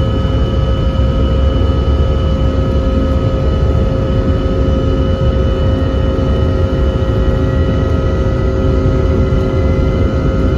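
Airliner's jet engines running with a steady, loud drone: a deep rumble under several constant whining tones, one of which rises slightly near the end.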